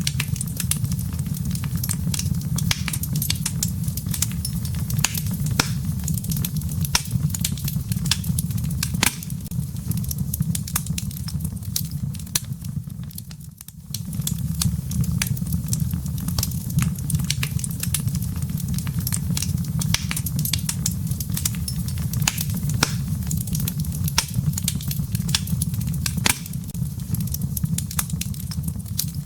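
Firewood burning in a fireplace, crackling with frequent sharp pops and snaps over a steady low rumble of flame. The sound dips briefly about halfway through, then carries on.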